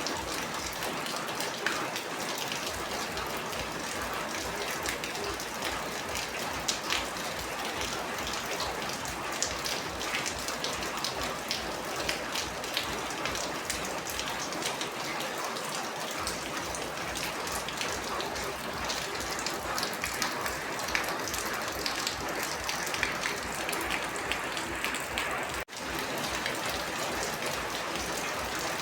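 Steady rain falling, with many separate drops striking close by. The sound cuts out for a split second near the end.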